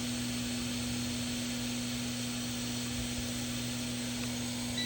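Steady electrical hum and hiss, with a short, high continuity beep from a digital multimeter in buzzer mode right at the end, as the probe finds a connected trace.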